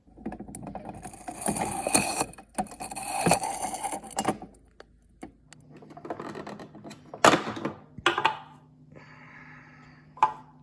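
Plastic rattling and clicking as the Saeco Spidem Cappuccino Instantly's control knob is pushed in and twisted through its settings, loading the instant coffee. From about five seconds in the machine gives a steady low hum while it heats, with a few sharp clicks over it.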